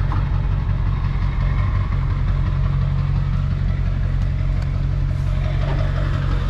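Vehicle engine running steadily, a constant low hum.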